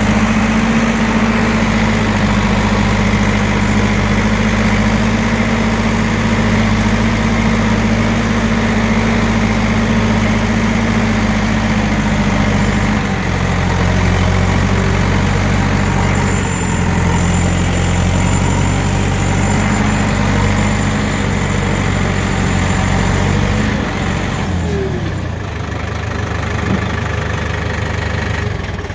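Farm tractor engine running steadily as the tractor drives along, its pitch shifting a few times, then falling as the engine is throttled down near the end.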